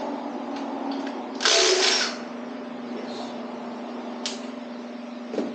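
A power tool runs in one short burst of under a second, about a second and a half in, during the removal of the connecting rod cap nuts. Two sharp clicks follow, over a steady low hum.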